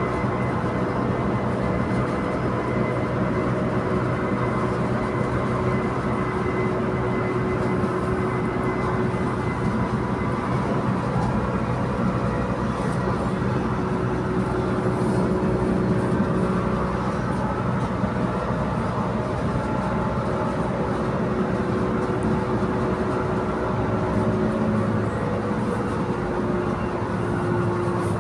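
Inside a Transperth B-series electric multiple-unit train in motion: a steady running rumble with several steady tones held over it.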